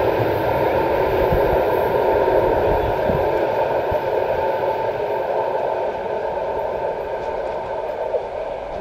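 Freight train of tank wagons rolling past close by: a steady rumble of wheels on rails with irregular low knocks, slowly fading near the end. An ED4M electric multiple unit is also running on the next track.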